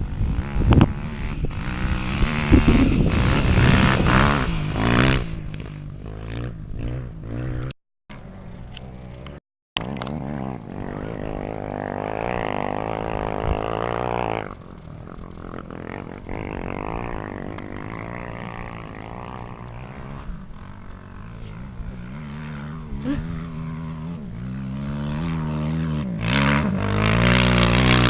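Off-road motorcycle engines running and revving, their pitch rising and falling with the throttle. The sound drops out twice, briefly, about eight and nine and a half seconds in.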